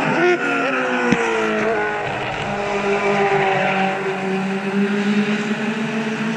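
Several race cars running past on track, their engines falling in pitch with short upward blips in the first couple of seconds, the pattern of downshifts under braking, then holding steadier notes as more cars follow.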